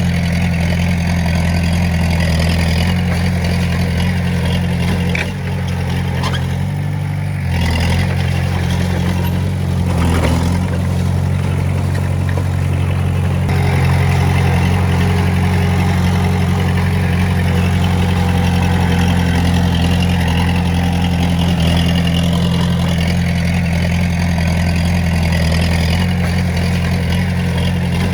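Diesel engine of heavy earthmoving equipment running steadily, with a brief dip in engine sound about seven seconds in.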